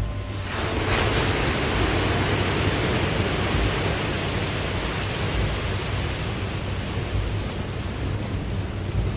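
A waterfall's rushing water: a steady, full hiss of falling water that swells in about half a second in and then holds even.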